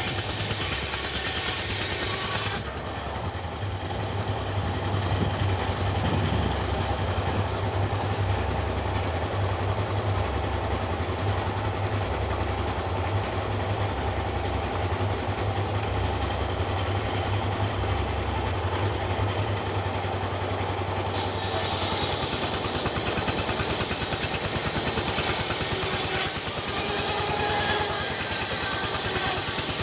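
An engine running steadily at a constant speed. The sound changes abruptly twice, about two and a half seconds in and again about twenty-one seconds in.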